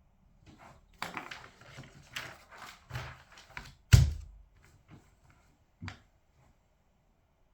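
Handling noise at a desk: a few seconds of rustling and light clicks, with one sharp, loud knock about four seconds in and a softer one about two seconds later.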